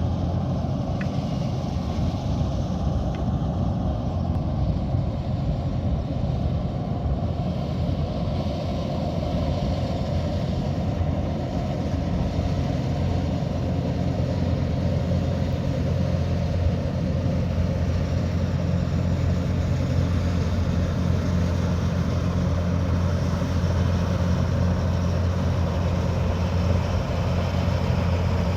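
Kubota DC108X rice combine harvester working: its engine and threshing machinery run steadily, with the low engine hum growing a little stronger about two-thirds of the way in.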